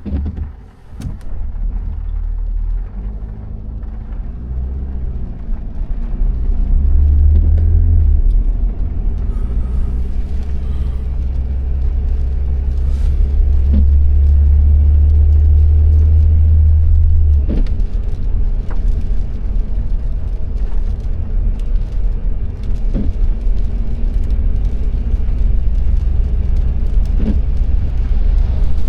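A car driving, with engine and road rumble. The sound rises from quiet over the first few seconds and then runs loud and steady, with a few faint ticks.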